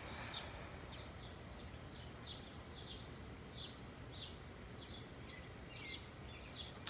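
Small birds chirping faintly in the background: short high chirps, each dropping slightly in pitch, repeated irregularly a couple of times a second over a steady low outdoor rumble.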